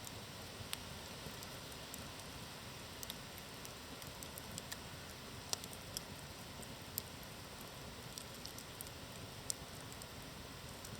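Campfire burning: a steady low hiss with irregular sharp crackles, a handful of louder snaps scattered through.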